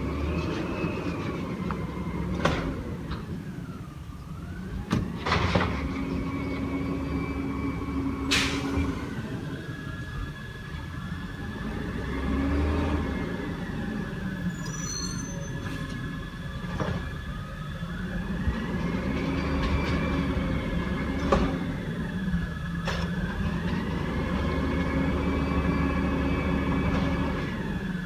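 Garbage truck engine revving up and dropping back several times as its hydraulics work, with sharp metal clanks between.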